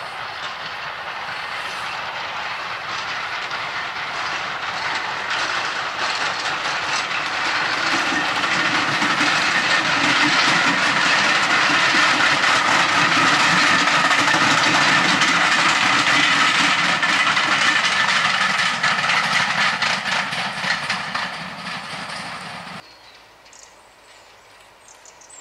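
Passenger train of heritage coaches running across a bridge, the wheels clicking over rail joints. The noise grows, is loudest in the middle and fades away, then cuts off abruptly near the end.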